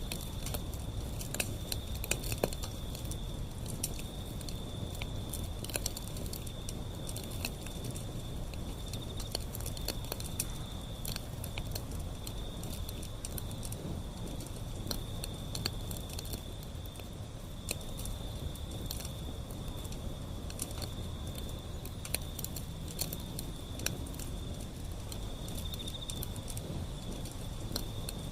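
Wood fire burning, with frequent sharp crackles and pops over a low, steady rumble of flame. A steady, slightly pulsing high-pitched trill runs underneath.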